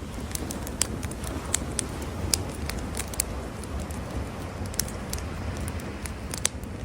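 Campfire crackling, with irregular sharp pops from the burning wood over a steady low rumble.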